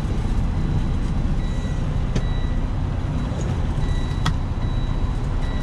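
A semi truck's diesel engine idling with a steady low rumble. Faint, intermittent high beeps come and go above it, and there are a couple of sharp clicks partway through.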